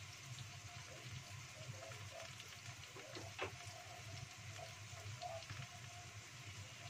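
Green chillies, shallots and garlic frying gently in oil in a wok over a low gas flame: a faint, steady sizzle with light crackles.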